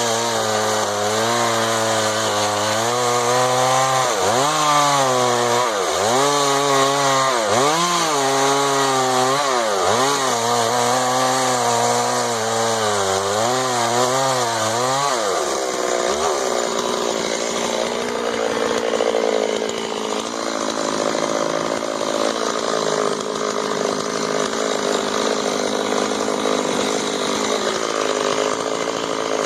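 Two-stroke chainsaw running at high revs, its engine note dipping and recovering again and again as the chain bites into the wood. About halfway through the clear engine pitch gives way to a lower, rougher, noisier sound.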